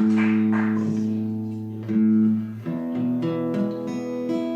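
Acoustic guitar chords strummed and left to ring, changing chord a few times between songs. The tail of audience applause dies away in the first second.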